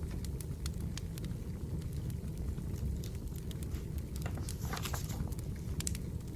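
Wood fire burning, with a steady low rumble and scattered sharp crackles and pops, and a short flurry of crackling about four and a half seconds in.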